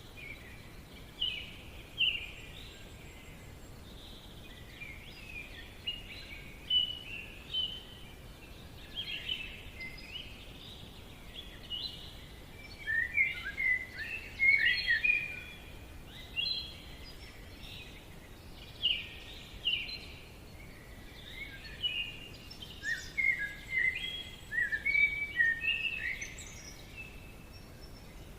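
Forest ambience: several songbirds chirping and calling in quick clusters of short, high notes over a faint steady background hiss.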